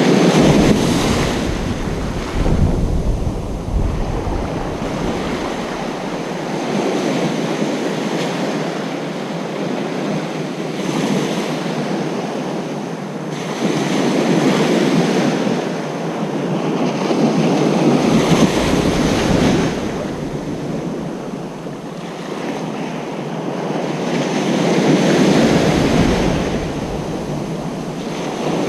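Ocean surf breaking on a beach: a continuous rush of waves that swells and ebbs every few seconds as each one rolls in and washes back. Now and then, near the start and twice later on, gusts of wind rumble on the microphone.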